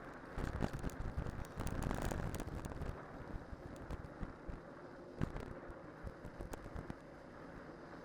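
Cyclocross bike on studded winter tyres rolling over snow and ice: steady tyre rumble with many sharp clicks and rattles, louder during the first three seconds, plus some wind on the microphone.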